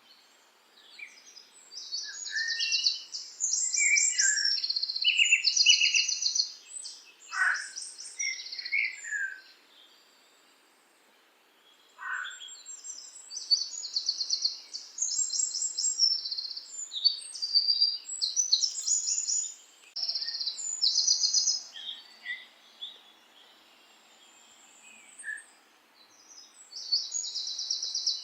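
Songbirds singing: bursts of fast, high trills and chirps, with two short lulls.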